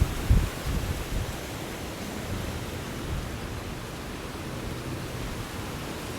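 Strong wind buffeting the camera's microphone: a couple of low thumps in the first half second, then a steady rushing hiss.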